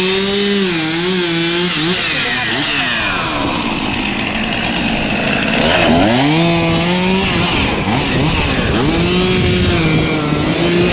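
Gas chainsaw running at high revs, its pitch sagging and climbing back several times as it bogs under load and revs up again, with one deep dip about six seconds in.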